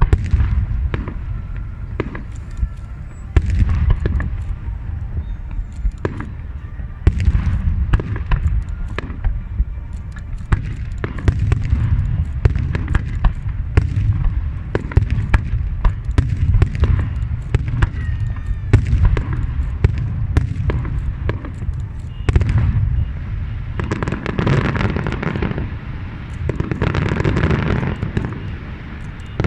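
A fireworks display going off continuously: a steady rumble of booming shell bursts with many sharp bangs and cracks. A dense run of crackling near the end.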